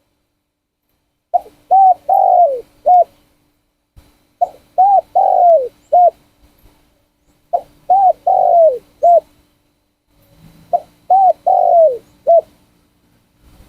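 A trained male spotted dove cooing: four near-identical phrases about three seconds apart, each a short coo, two longer coos with the second falling in pitch, and a short closing coo.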